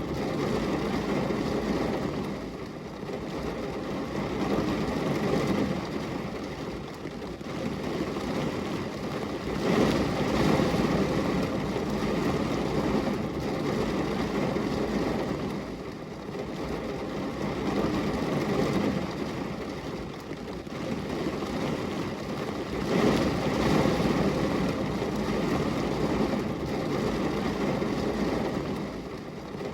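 Steady rain falling on a glass window: an even wash of noise that swells and eases every few seconds.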